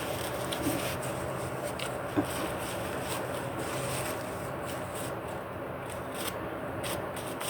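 Dog gnawing on a large bone, with scattered scraping and rubbing clicks against a steady background hum.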